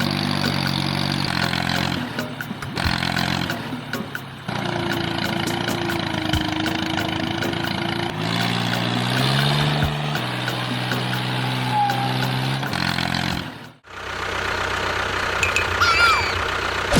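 A vehicle engine running steadily at low pitch, in several stretches that cut off and restart abruptly.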